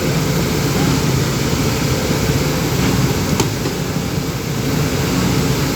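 A backhoe's engine running steadily with a loud, even hum, and a single sharp click about three and a half seconds in.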